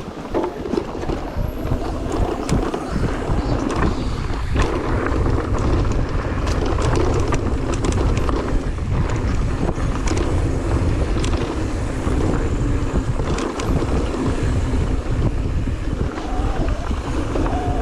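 Wind buffeting the microphone with a heavy, steady rumble, broken by many short knocks and rattles, as the camera moves fast downhill.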